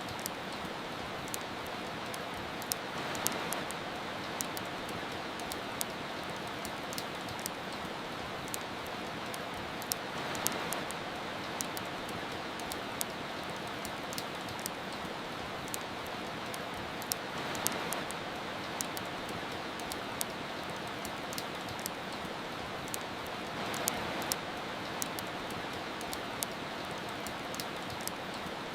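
Steady rain hiss with a wood fire crackling over it in many sharp pops. The rain swells briefly four times, about every seven seconds.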